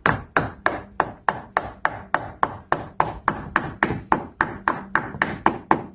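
Rapid hammer blows, about three a second, driving a caulked block of treated 2x4 lumber tight into the rotted-out bottom of a wooden window frame.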